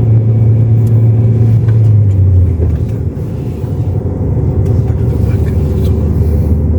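A motor vehicle's engine running with a steady low drone. About two and a half seconds in, its pitch drops, as when the engine eases off.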